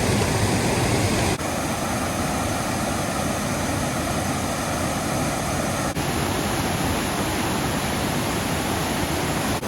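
Fast-flowing waterfall rushing steadily. The sound shifts abruptly twice, about one and a half and six seconds in.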